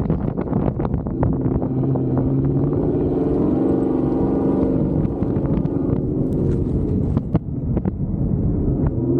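Truck engine running at a steady pitch, with sharp clicks and knocks over it throughout.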